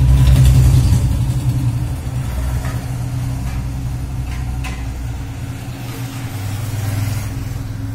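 A motor vehicle's engine idling with a steady low hum, loudest in the first second or two.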